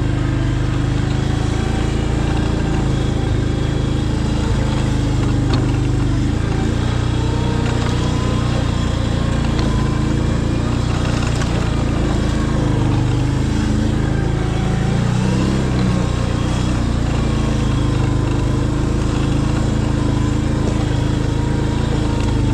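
Rain-swollen river rushing heavily, a steady loud roar of water.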